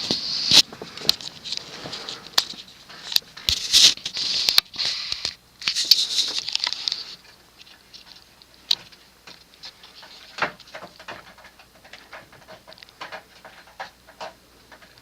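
Casablanca Ventura ceiling fan coasting down after being switched off from high speed: the airy whoosh of its gloss blades fades away about seven seconds in. Scattered light ticks and taps run through the whole stretch.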